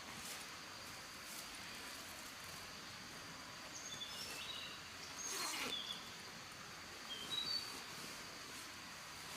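Forest ambience: a steady hiss with a constant high insect tone, and short bird chirps about four seconds in and again a few seconds later. A brief louder swish comes in the middle.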